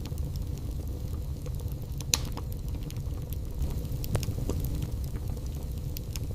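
Wood fire burning in a fireplace: a steady low rumble of flames with scattered small crackles, and sharper pops about two seconds in and again around four seconds in.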